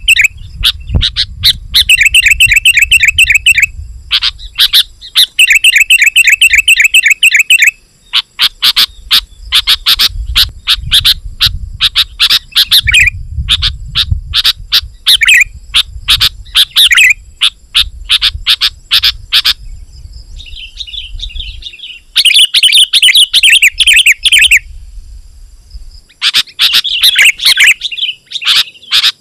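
Sooty-headed bulbul singing loudly and without pause: fast chattering trills alternating with runs of sharp, quick chirps, over a low rumble.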